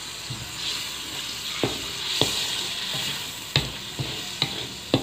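Red chili spice paste sizzling as it fries in a wok, stirred with a wooden spatula that knocks sharply against the pan about five times.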